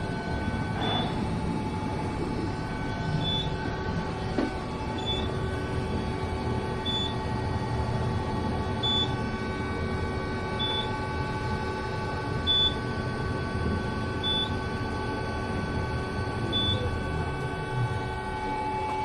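Steady mechanical hum with several held tones, like a vehicle or lift in motion, with a short high beep repeating about every two seconds, nine times in all.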